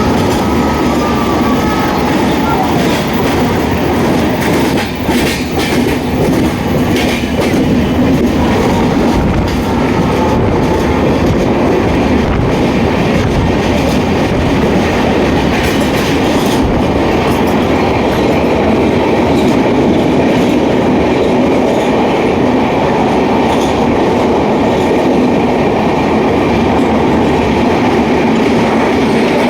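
A passenger train running along the track, with a steady loud rumble of wheels on rails and some sharp clacks over rail joints in the first several seconds.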